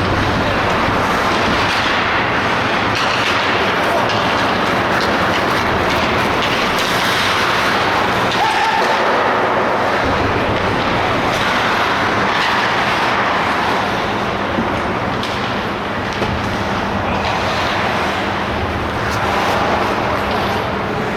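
Steady, loud ice-rink noise during an ice hockey game, with indistinct voices and occasional knocks.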